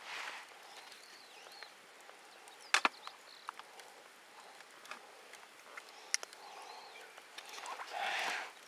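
Cooking gear and seasoning containers being handled: a few sharp clicks and knocks, the loudest about three and six seconds in, then a short rustling shake near the end as salt and pepper go onto raw beef. Faint birdsong behind.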